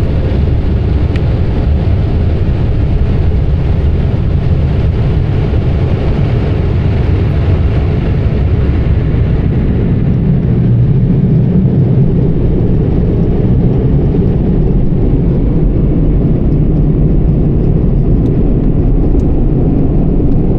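Automatic car wash machinery running around the truck, heard from inside the cab: a loud, steady rush with a deep rumble. The higher hiss fades about eight seconds in, leaving mostly the low drone.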